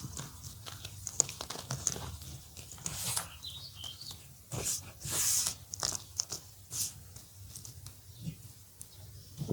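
Orange gym chalk being crumbled: irregular dry crunches and crackles, with a longer gritty hiss about five seconds in.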